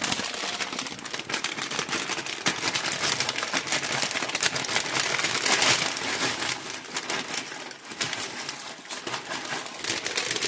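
Plastic bag of dried noodles crinkling and rustling as it is handled, a dense, irregular crackle that eases off a little near the end.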